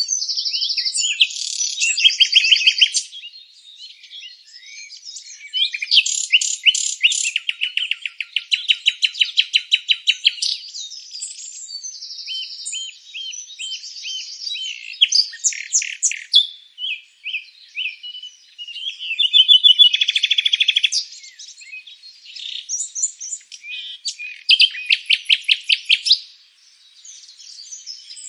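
Several songbirds singing over one another in rapid trills and high chirping phrases, with brief lulls between bursts.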